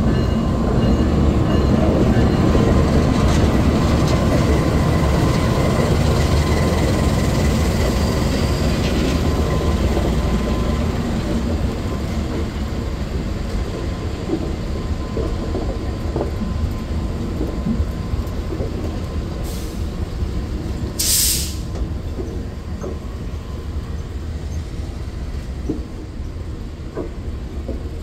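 A train running past, a heavy rumble that is loudest over the first ten seconds and then slowly fades, with a brief hiss about twenty-one seconds in and a few light clicks near the end.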